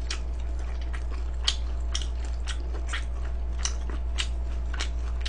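Close-miked crunchy chewing, a crisp crunch about twice a second, over a steady low hum.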